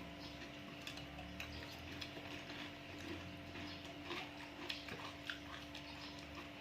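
Close-up eating sounds of sea grapes being chewed: irregular small clicks and pops, several a second, over a steady low hum.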